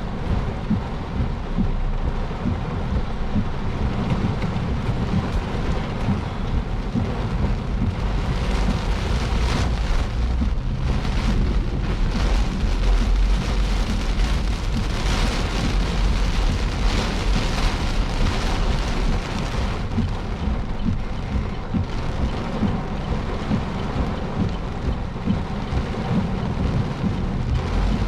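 Heavy rain pounding on a moving car, heard from inside, with a steady low rumble underneath. The rain grows heavier for a stretch in the middle, then eases a little.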